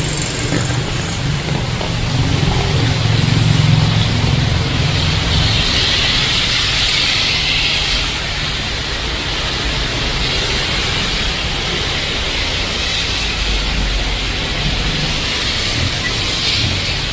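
Heavy rain pouring steadily on a street, with a vehicle engine rumbling by in the first few seconds.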